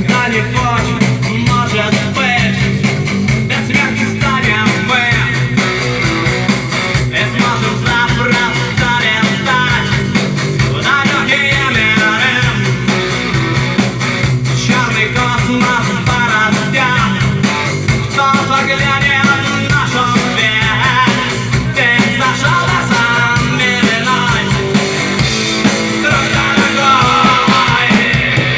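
Rock music: a band playing a cover song, with guitars and a wavering lead melody over a steady loud mix.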